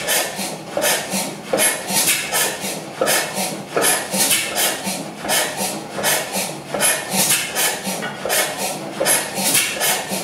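Crossley slide-valve stationary gas engine running, its valve gear and firing strokes making a steady, evenly repeating clattering beat.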